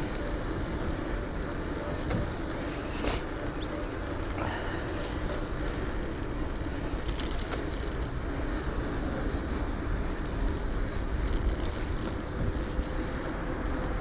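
Wind buffeting an action camera's microphone, with steady tyre and road rumble from a moving electric bike and a few faint clicks.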